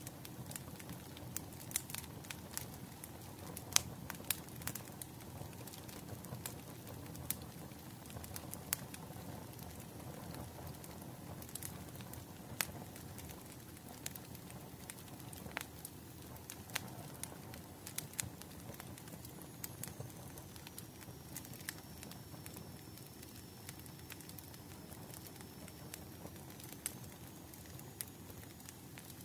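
Wood fire crackling: irregular sharp snaps and pops over a low, steady rumble of burning logs.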